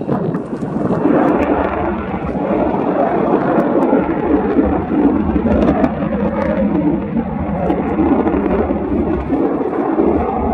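Jet roar from Blue Impulse Kawasaki T-4 jets passing overhead. It swells about a second in and then holds as a loud, steady rumble.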